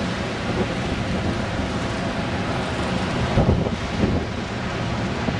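Strong wind buffeting the microphone: a dense, steady rush with irregular low thumps, gusting harder about three and a half seconds in.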